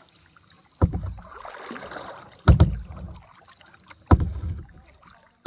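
Kayak paddle strokes, one about every second and a half, each a sudden low knock followed by a short splash of water.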